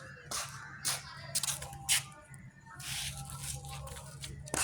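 Feathers being pulled out of a hen by hand: several short, sharp tearing sounds, over a low steady hum.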